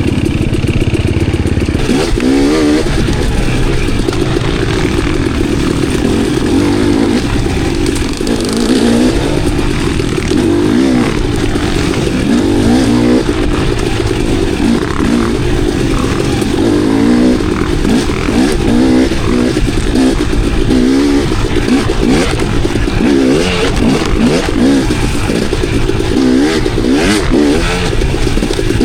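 Enduro dirt bike engine revving up and down over and over as it rides single track, with a few sharp knocks and clatter.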